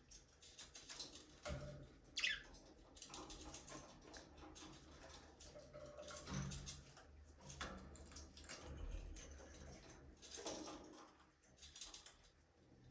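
Budgerigars chirping faintly among scattered clicks and scratches, with one clear falling chirp about two seconds in.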